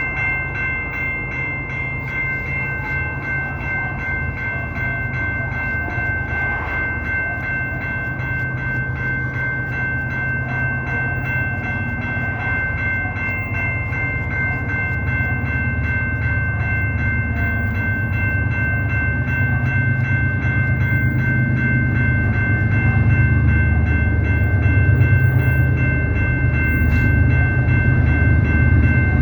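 Canadian Pacific train rumbling and growing louder in its second half, under a steady high-pitched ringing tone that runs unbroken throughout.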